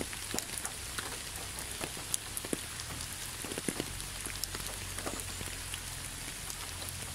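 Steady rain falling, with many scattered sharp drop ticks over an even hiss and a faint low rumble underneath.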